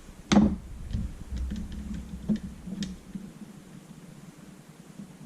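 Flathead screwdriver working a small metal part out of a paintball marker's body: one sharp knock about a third of a second in, then a run of light metallic ticks and clicks.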